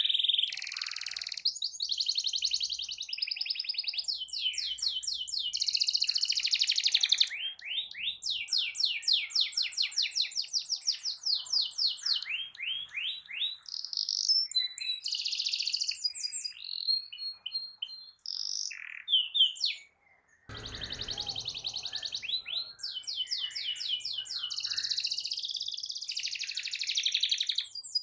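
Domestic canary singing a long, continuous song of fast rolling trills and rapidly repeated high notes. The song breaks off for a moment about two-thirds of the way in with a soft low thud, then picks up again.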